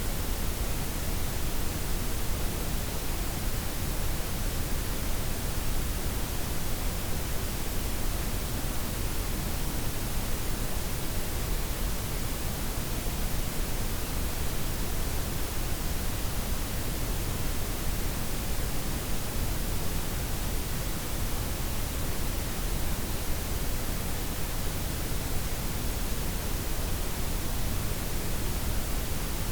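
Steady blend of white, pink and brown noise, an even hiss with extra weight in the low end, unchanging throughout.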